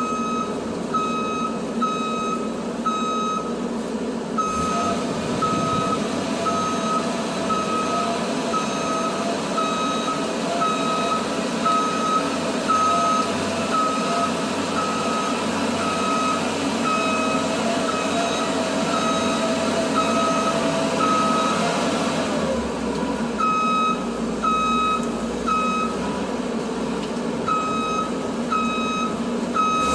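Tow truck's backup alarm beeping a little under twice a second over its running diesel engine. A steady whine joins about four seconds in and stops a little past two-thirds of the way through, while the beeping continues with a couple of short pauses.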